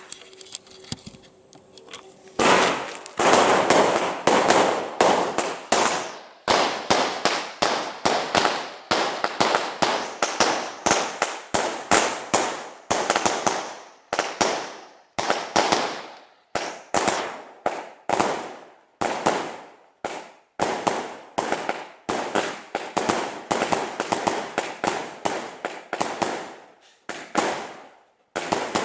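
A 138-shot fireworks cake firing in rapid succession: sharp bangs about two a second, each with a short decaying tail, starting about two and a half seconds in.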